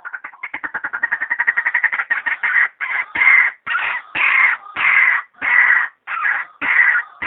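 Female white-breasted waterhen calling: a fast stutter of short clicking notes that speeds up and grows louder, then turns into a run of loud, harsh croaking notes, about three every two seconds. This is the call used as a lure to bring the birds in.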